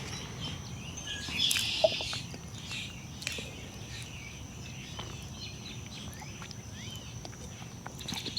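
Outdoor ambience with birds chirping now and then, including a brief trill about a second and a half in, over a faint steady high-pitched tone.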